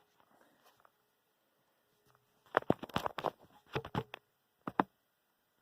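A cluster of quick clicks and taps close to the microphone, about halfway through, after a near-silent start: handling noise as the phone is set up propped against a putty knife.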